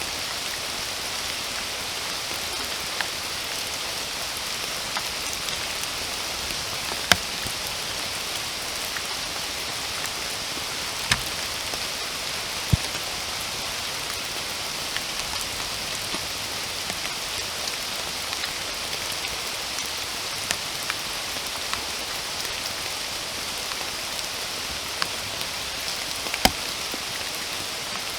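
Steady rain falling, a continuous even hiss, with scattered louder single drops ticking close by, the sharpest about seven seconds in.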